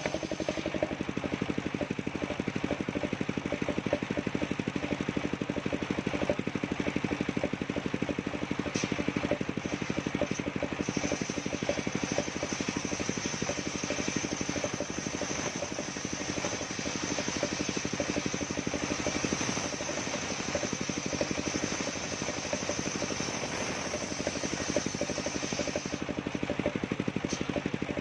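Engine of a portable circular-saw sawmill running steadily with a rapid even firing beat. A high steady whine joins about ten seconds in and drops out near the end.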